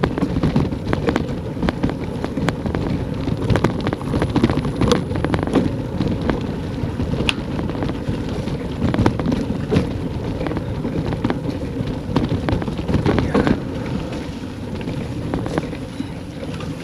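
Wind buffeting the microphone in a dense, steady rumble, with frequent sharp clicks and knocks scattered throughout.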